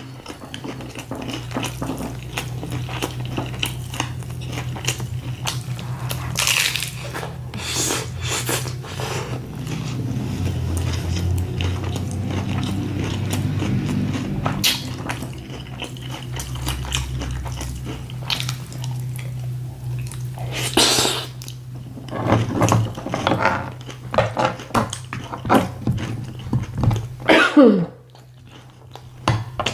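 Chewing and crisp crunching bites of a loaded taco, with sharp crunches scattered throughout and thicker clusters of them in the second half.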